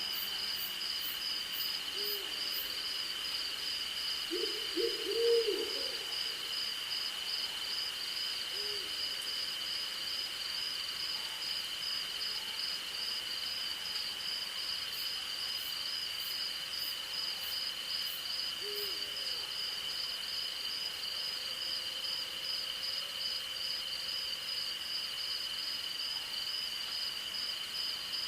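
Night insect chorus of crickets, a steady high trill with a faster pulsing trill above it, while an owl hoots now and then. There is a single hoot about two seconds in, a quick run of louder hoots around five seconds, and further single hoots near nine and nineteen seconds.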